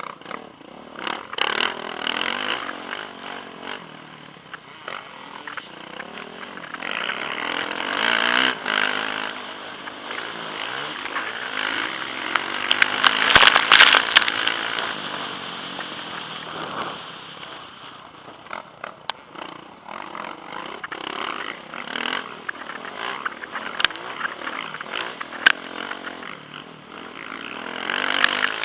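Motocross bike engine revving up and down hard as it races, heard through a helmet camera with wind rush on the microphone and frequent clattering knocks from the bike; the loudest rush comes about halfway through.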